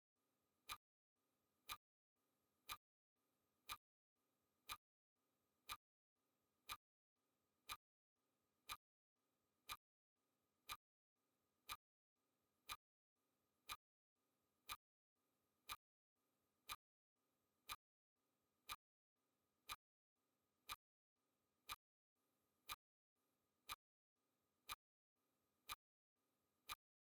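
Faint clock-ticking sound effect of a countdown timer: one sharp tick every second, evenly spaced.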